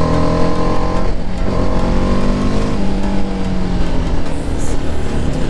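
Motorcycle engine under way, its pitch climbing, dropping just over a second in, climbing again and dropping near three seconds, then holding steady.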